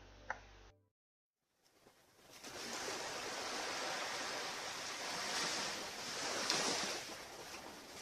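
Surf breaking and washing onto a beach: a steady rush of wave noise that fades in about two seconds in, after a brief silence, and swells a couple of times.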